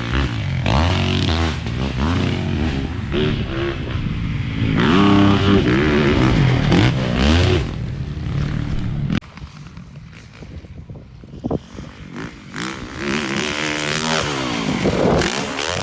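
Motocross bike engine revving up and down repeatedly through the gears. The engine drops away suddenly after about nine seconds and runs quieter, then revs up again near the end.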